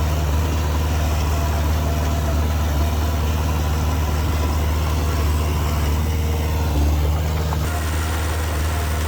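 Diesel engine of heavy earthmoving machinery running at a steady low speed, a constant low drone without revving. The background shifts abruptly a little before the end while the engine note carries on.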